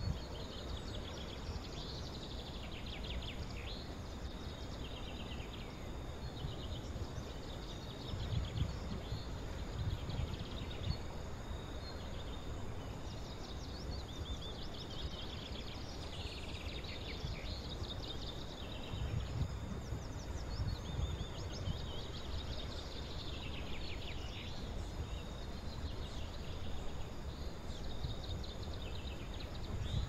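Small birds chirping and trilling in quick, high-pitched phrases, one after another. Gusts of wind rumble on the microphone now and then.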